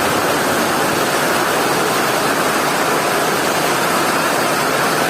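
Heavy rain falling steadily, an even continuous hiss with no separate drops or knocks standing out.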